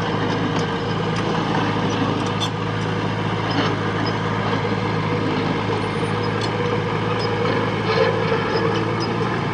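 Diesel engine of heavy earthmoving machinery running steadily under work, with a few short knocks and clanks over it.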